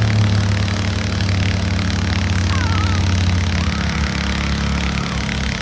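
Tractor engine running steadily, its low note dropping slightly about two-thirds of the way through.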